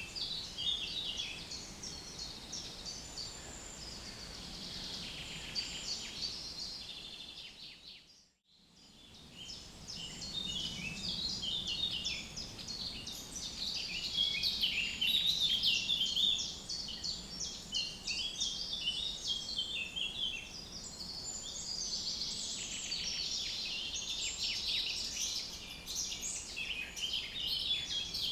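Several birds singing and chirping together in a busy chorus, with a brief fade to silence about eight seconds in.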